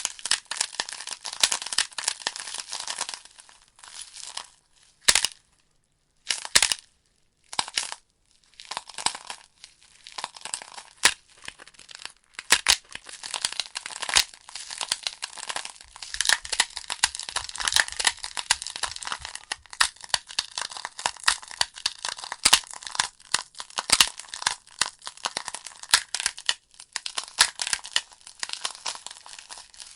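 Wood fire burning in a fireplace, crackling with a dense run of snaps and pops. It thins out to a few single sharp pops with near quiet between them from about five to eight seconds in, then the steady crackle resumes.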